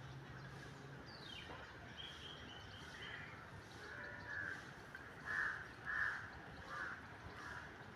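Birds calling outdoors: a falling high call about a second in, then a run of short calls between about four and seven seconds in, the loudest two near the middle, over a steady background hiss.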